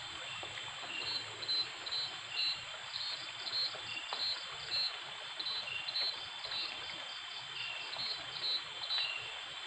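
Night chorus of calling insects and frogs: short high chirps repeating about twice a second and a lower chirp a little slower, over a steady high insect drone and the trickle of a small stream. It may include the unidentified call that the herper hears from somewhere above.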